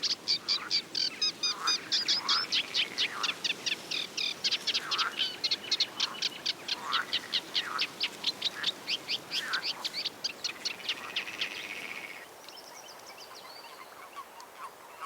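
Small songbirds chirping: a fast, even run of high chirps, about five a second, with lower notes mixed in every so often. About twelve seconds in it drops to a fainter high twittering.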